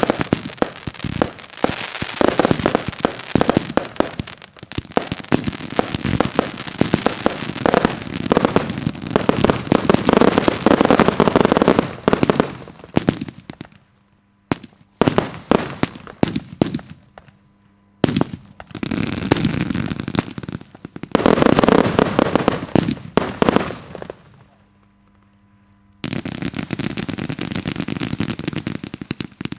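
Daytime fireworks display: rapid salvos of bangs and dense crackling, thinning to scattered single bangs about halfway, then a second dense run and a short lull before firing resumes near the end.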